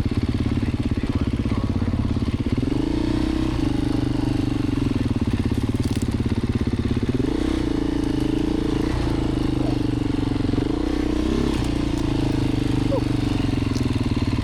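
Beta 350 RRS dirt bike's four-stroke single-cylinder engine running under way, its pitch rising and dropping back several times with throttle changes.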